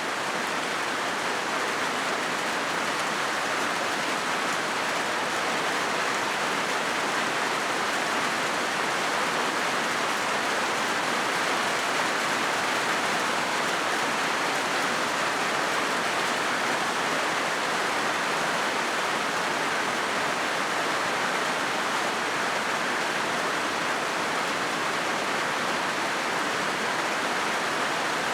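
Steady rain drumming on a corrugated zinc roof: a dense, even hiss of countless drops on the metal sheets.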